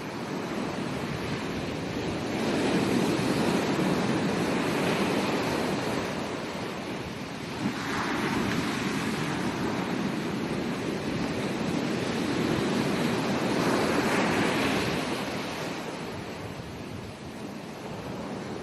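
Ocean surf on a beach: waves breaking and washing in, the rush swelling and easing, with a wave breaking about eight seconds in and another about fourteen seconds in.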